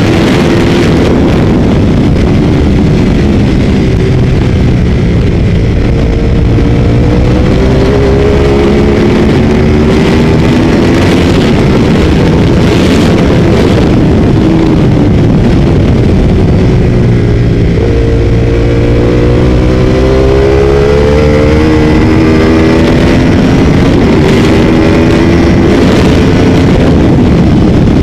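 Ducati 848 V-twin racing motorcycle heard onboard at speed: the engine note climbs under hard acceleration and drops on gear changes and braking, again and again, over a constant rush of wind noise.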